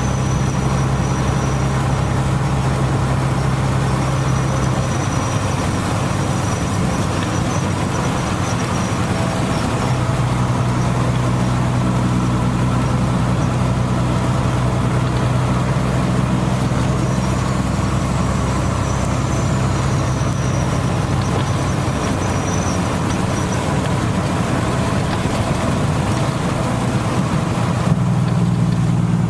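Steady rain falling, with a vehicle engine idling underneath as a low, steady hum that shifts in pitch a few times.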